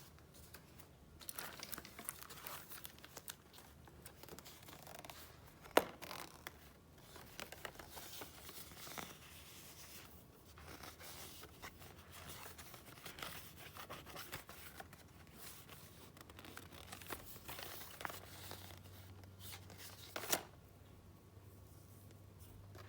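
Paper and packaging being handled: irregular rustling, crinkling and a tearing-like sound, with two sharp taps, one about six seconds in and one about twenty seconds in. It goes quieter near the end.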